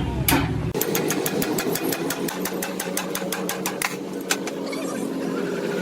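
A hammer blow on metal, then a fast, even mechanical clicking, about eight clicks a second, that thins out after about four seconds into a low steady hum.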